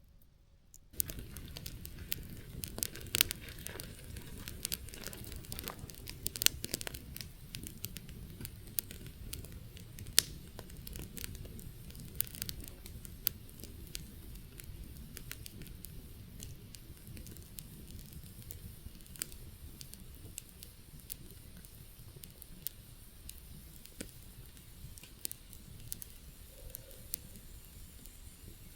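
Wood campfire burning down, with sharp, irregular crackles and pops from the burning wood over a low rumble; it starts about a second in, and the pops thin out toward the end.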